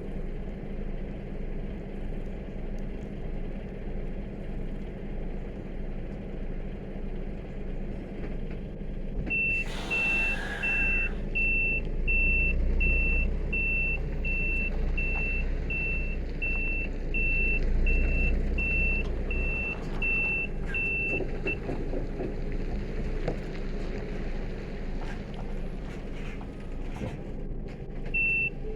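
Truck engine running steadily. About a third of the way in, a short hiss sounds, then a reversing beeper starts: quick, evenly spaced high beeps that last about twelve seconds while the engine's rumble grows louder. The beeping starts again near the end.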